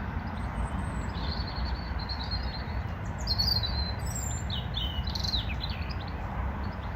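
Small birds chirping and twittering in many short calls and trills, over a steady low rumble.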